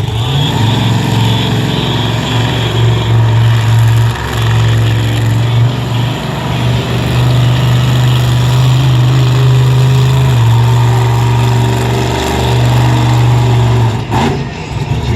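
Monster truck engine running loud, its revs held high and stepping up and down several times.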